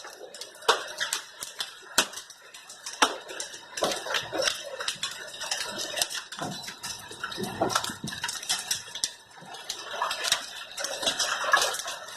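Hailstones striking and bouncing on hard surfaces: a dense, irregular patter of sharp clicks and knocks, several a second.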